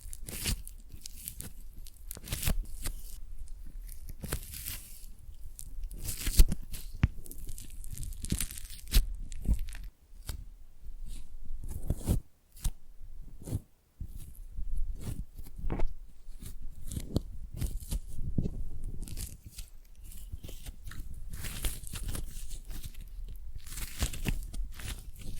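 Foam clay squeezed, pulled and pressed close to the microphone, giving a dense run of irregular crunchy handling sounds. There are short pauses about ten and thirteen seconds in.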